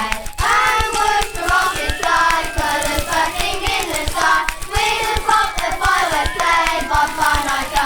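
A group of voices singing together over rhythmic hand claps.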